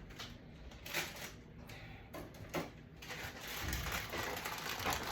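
Objects being handled: a few faint knocks and clicks, then a dense crackling rustle from about three seconds in.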